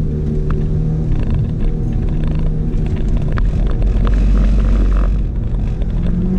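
Audi S3 8L's turbocharged four-cylinder engine running under way, heard from inside the cabin, with steady road rumble and a few scattered clicks. A heavier low rumble swells about four seconds in and drops away about a second later.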